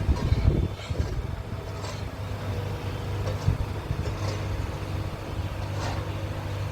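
An engine running steadily at idle with a low, even hum, and gusts of wind rumbling on the microphone in the first second.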